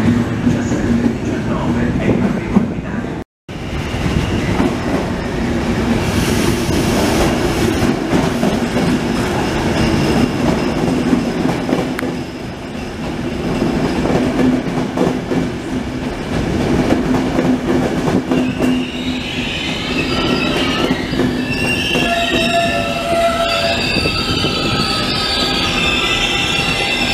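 A train of passenger coaches rolling past with a steady rumble and hum of wheels on rail. About two-thirds of the way through, high wheel squeal sets in, several shrill tones wavering on top of the rumble. The sound cuts out briefly about three seconds in.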